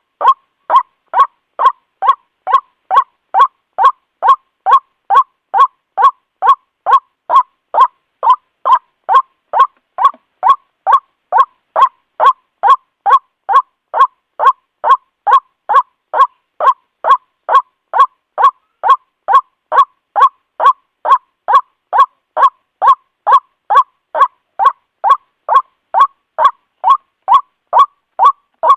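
White-breasted waterhen calling, a harsh 'kruak' note repeated steadily about twice a second, every note alike. It is a looped lure call for attracting waterhens.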